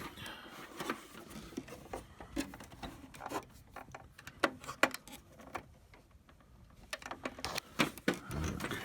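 Scattered clicks, taps and knocks of hard plastic parts being handled and pried at while a printer's plastic cover panel is worked loose.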